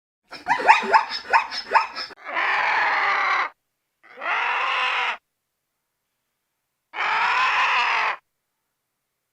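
An animal calling: a quick run of short rising yelps, then three long harsh screaming calls of about a second each, a second or two apart.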